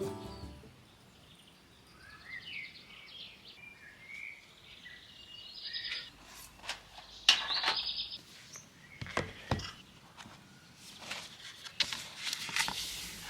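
Birds chirping and singing outdoors in short, scattered calls and trills, with a few sharp taps or knocks in the second half.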